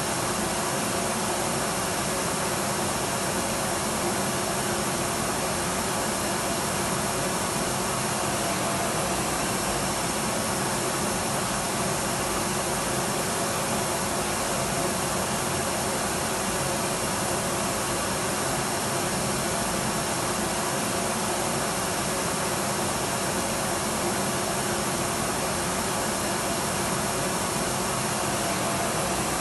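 Electric vacuum cleaner running steadily, its motor's whine and airflow hiss unbroken, with a faint high steady tone over the rushing noise.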